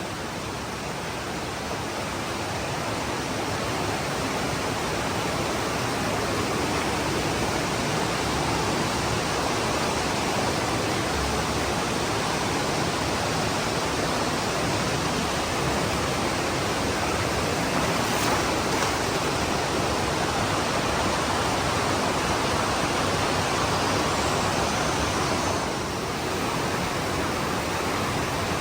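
Rushing white water of a mountain stream, a steady loud hiss that swells a little over the first few seconds.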